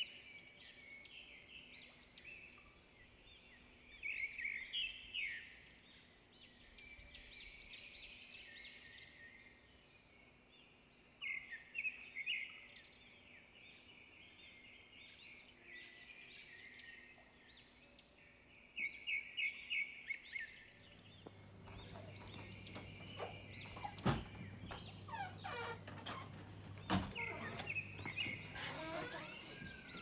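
Garden birds chirping and calling, with several quick runs of sharp repeated notes. In the last third a steady low hum comes in, with a couple of sharp knocks, the loudest sounds of the stretch.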